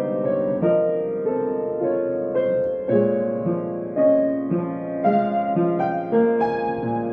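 Solo piano playing a slow, gentle melody over sustained chords, a new note struck about every half second and left ringing.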